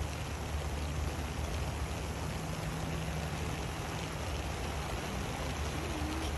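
Steady rain falling on a flooded road, an even hiss with a low rumble underneath.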